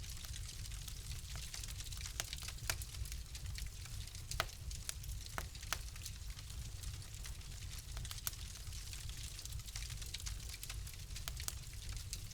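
Fireplace fire crackling, with sharp pops at irregular intervals over a steady low rumble and hiss.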